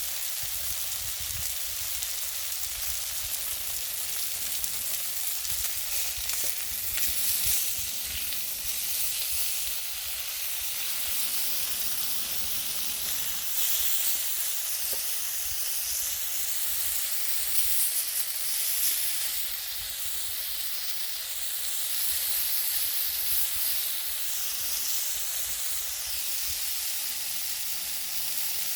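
Clams sizzling on a grill net over a wood fire: a steady hiss, with a few faint pops.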